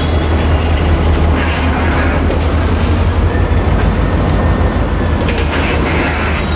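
EMD diesel freight locomotive running with a loud, steady low rumble as the freight train moves slowly over the crossing tracks. A faint high squeal rises and falls slightly in pitch through the middle.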